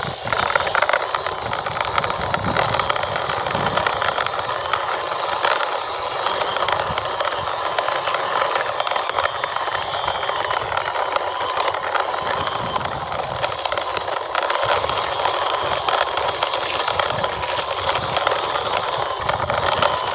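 Toy vehicle being pushed by hand along the ground, its plastic wheels giving a steady rolling rattle with occasional low bumps.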